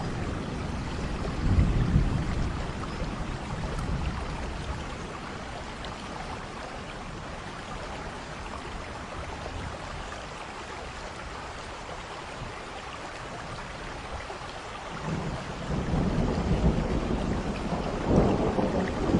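Steady rain falling during a thunderstorm, with a low rumble of thunder about two seconds in that fades away, and another rumble building from about three-quarters of the way through, loudest near the end.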